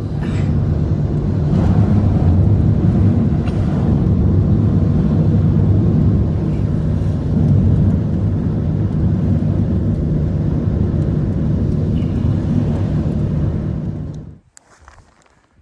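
Strong blizzard wind buffeting the microphone: a loud, steady low rumble that cuts off suddenly about fourteen seconds in.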